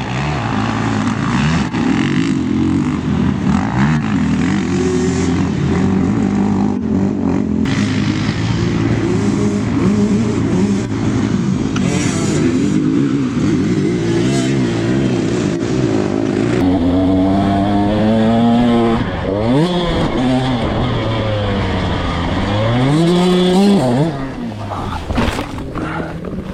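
Dirt bike engine running and being revved up and down, its pitch climbing and falling repeatedly in the second half.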